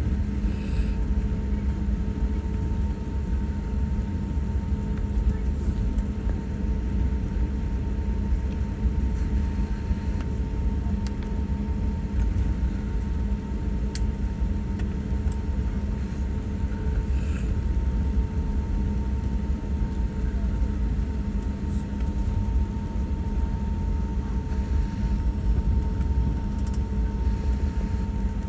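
Steady low rumble and hum inside an airliner cabin as it taxis after landing, with the engines at idle.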